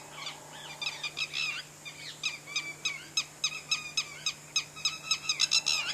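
Lapwings calling back and forth in a rapid series of short, sharp high notes that come thicker and faster in the second half.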